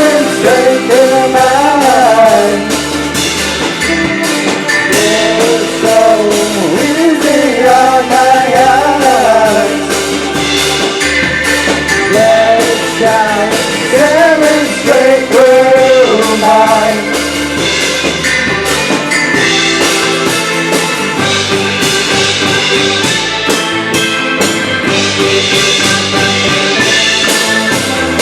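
A rock band playing live, with drums and bass carrying a steady beat and a bending melodic lead line over the first half or so, then a fuller, brighter band sound to the end.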